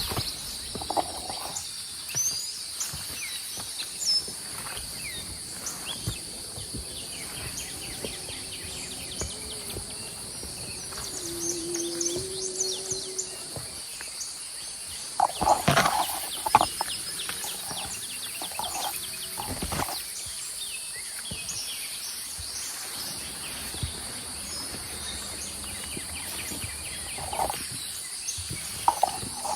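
Forest insects keep up a steady high-pitched drone, with scattered bird chirps over it. A few louder knocks and rustles come about halfway through.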